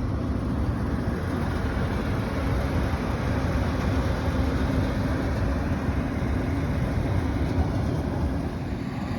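Steady drone of rooftop air-conditioning machinery, with a faint constant hum, mixed with low wind rumble on the microphone.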